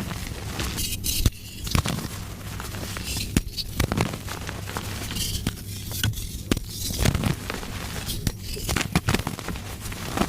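Soft gym chalk being crushed and crumbled by hand: a run of irregular crisp crunches and crackles, with a steady low hum underneath.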